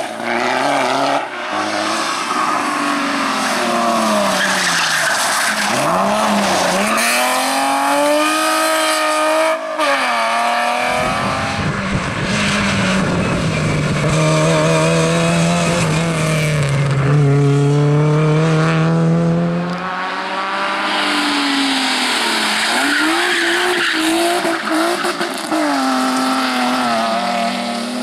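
Rally cars driven hard, their engines revving up and dropping back through gear changes, with tyres squealing and skidding. Midway a lower, steadier engine note holds for several seconds before the rising and falling revs return.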